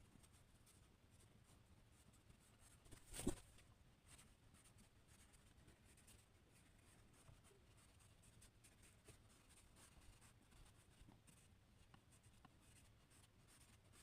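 Faint scratching of drawing strokes on paper, with one short knock about three seconds in.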